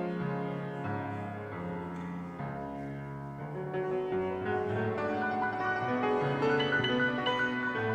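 Keyboard instrumental music of held chords that change about once a second. It grows louder about halfway through.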